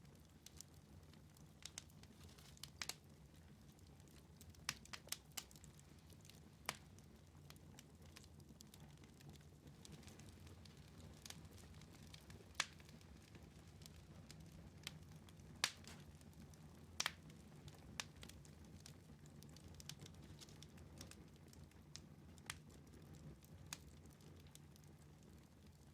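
Wood fire crackling in a fireplace: sparse, irregular sharp pops and snaps, a few clearly louder than the rest, over a low steady hum.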